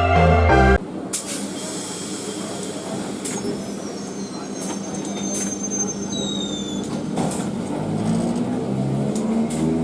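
Intro music cuts off about a second in, giving way to a BEML-built electric multiple unit train: a steady hiss with scattered clicks and knocks. Near the end a rising whine from the traction motors sets in as the train picks up speed.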